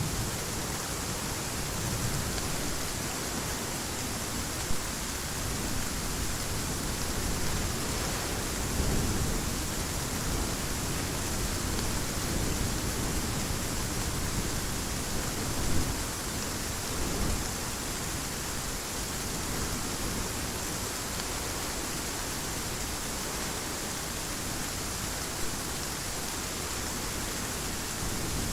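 Heavy rain falling in a steady, even hiss, with a few brief low swells partway through.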